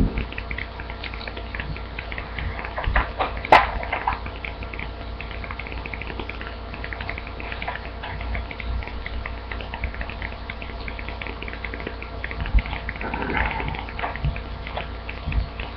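A sheet of paper being handled and folded in half, rustling and creasing in small crackles, with one sharp crackle about three and a half seconds in, over a steady low hum.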